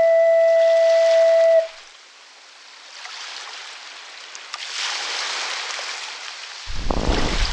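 A steady whistle-like tone holds for about a second and a half, then cuts off. A hiss of rushing, foaming water swells after it, and near the end a rough churning with a low rumble comes in suddenly.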